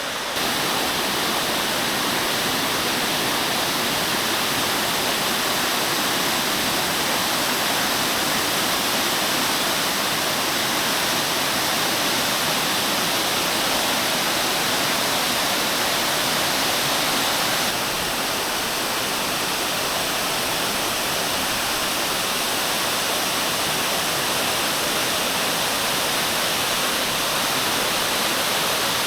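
A small waterfall rushing and splashing steadily, a constant roar of falling water that drops a little in level about eighteen seconds in.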